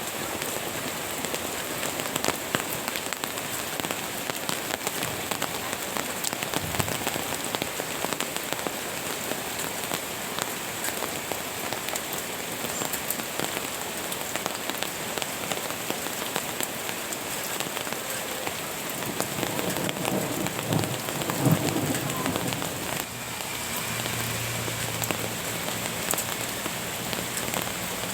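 Steady rain falling, with many separate drops ticking through it. Around 20 seconds in, a brief lower sound rises over the rain, and from about 23 seconds a low steady hum sits beneath it.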